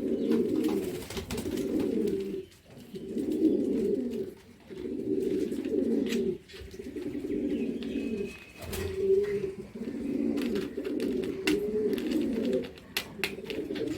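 Domestic pigeons cooing, one low rolling coo after another with short breaks between them, with a few faint clicks.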